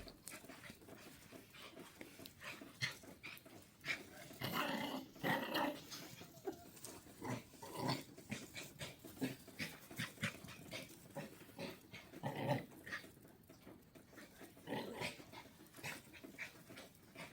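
Small dog making several brief, faint sounds amid scattered light clicks.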